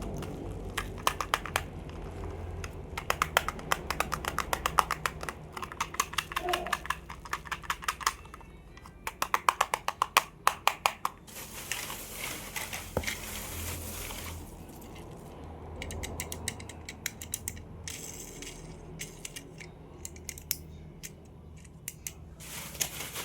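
Plastic toys and packaging being handled: runs of rapid, sharp clicks and rattles, broken by stretches of rustling.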